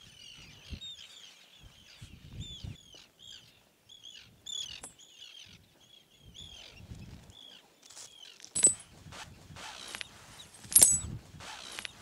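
Birds calling with quick, repeated high chirps, several a second. Near the end come a few louder knocks and rustles, the loudest about two-thirds of the way in and again close to the end.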